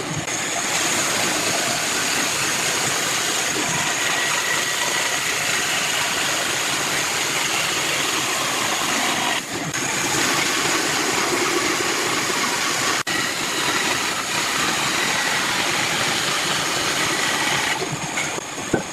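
A woodworking power tool running steadily under load, with two brief dips about nine and thirteen seconds in.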